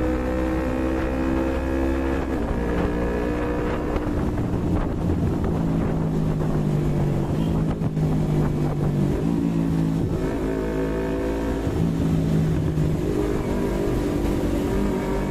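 Yamaha MT-25's 250 cc parallel-twin engine heard while riding. Its pitch climbs, drops back about two seconds in, holds fairly steady through the middle and climbs again near the end.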